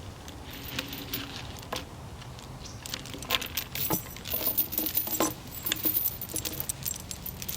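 Steel chain clinking and rattling as it is handled: irregular metallic clicks that come thicker after about three seconds.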